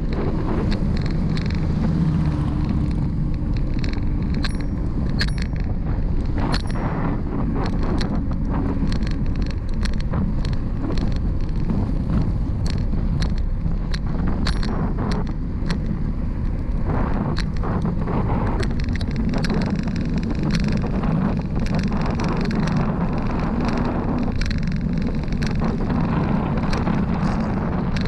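Steady low rumble of wind and road noise from a moving bicycle, with many sharp clicks and ticks scattered throughout.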